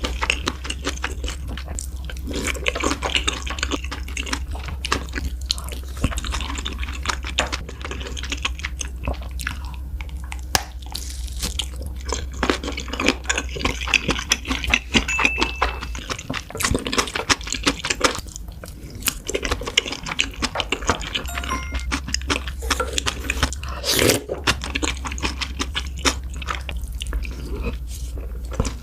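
Close-miked eating: chewing and biting with many irregular wet clicks, smacks and crunches, as food such as kimchi fried rice and kielbasa sausage is eaten. A steady low hum runs underneath and drops out for a few seconds midway.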